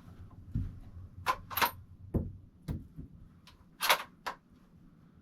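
Handling noise: a few dull knocks and sharp metallic clicks and rattles, the loudest about four seconds in.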